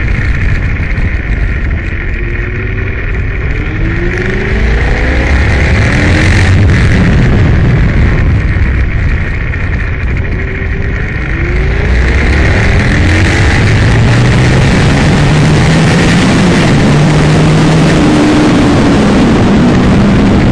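Aprilia Tuono motorcycle's V-twin engine running hard under a steady rush of noise. It eases off about two seconds in and again about eleven seconds in, each time followed by revs climbing as the bike pulls away again.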